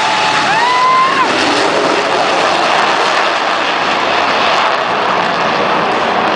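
Jet engine noise from a Blue Angels F/A-18 Hornet at an airshow: a loud, steady rush, with a short rising whine in the first second.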